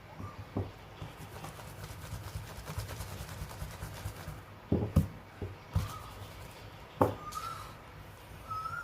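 Pencil and drawing tools on paper while circles are drawn: faint scratching with several sharp knocks, the loudest about five and seven seconds in. Short high whistle-like calls sound several times, the last one near the end.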